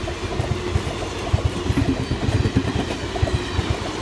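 A passenger train passing close by: a steady rumble with a quick, irregular run of low knocks from its wheels on the rails.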